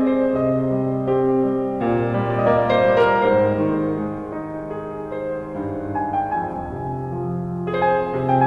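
Gentle background piano music playing slow held chords, changing chord about two seconds in and again near the end.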